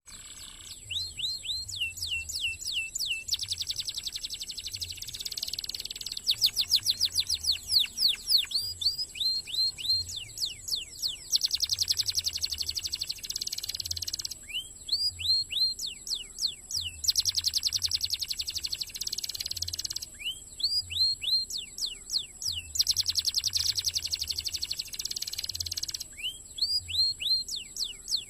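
Domestic canary singing in fast, dense phrases: a run of quick descending chirps followed by a long rapid trill, the pattern repeating about every six seconds.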